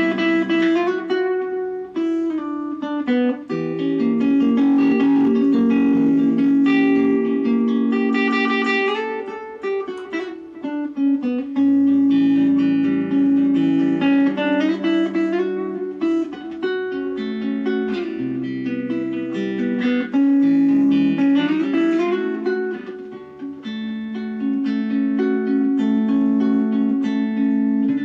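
Godin ACS Slim Multiac nylon-string electro-acoustic guitar playing plucked chords and melody, with notes left to ring.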